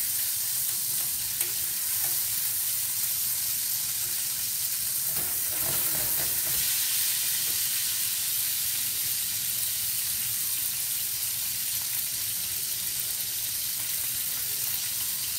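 Chicken thighs and sausages sizzling steadily as they fry in oil in a stainless steel sauté pan, with tongs turning the pieces.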